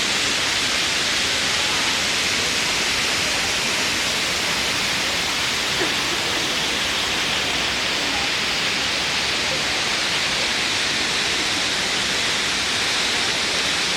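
Fountain water jets splashing down in a steady rush.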